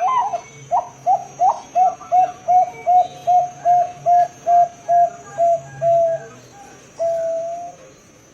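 Zebra dove (Bangkok-type perkutut) cooing: a rapid string of about fifteen short, clipped coos at roughly three a second, ending in one longer drawn-out final note.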